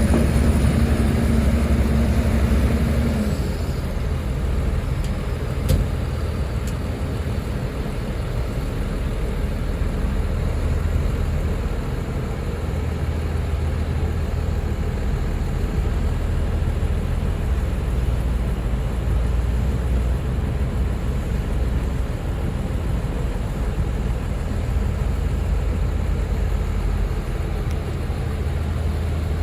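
Heavy diesel engine of earth-moving machinery running steadily with a deep, even hum. A steady whine over it stops about three seconds in, and there is a single sharp knock about six seconds in.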